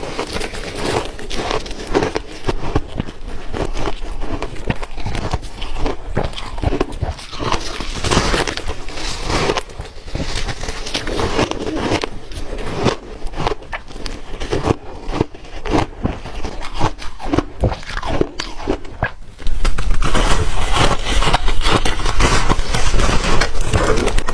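Close-up crunching of ice being bitten and chewed, a dense run of irregular sharp cracks and crackles. About 19 seconds in it suddenly becomes much louder.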